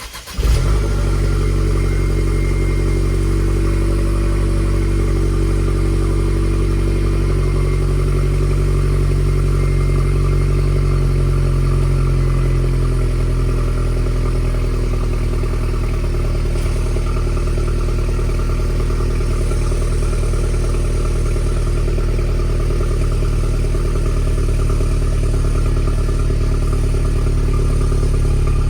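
2012 Mercedes-Benz SLK 250's turbocharged four-cylinder engine on a cold start: it catches with a brief flare in revs at the very beginning, then idles steadily.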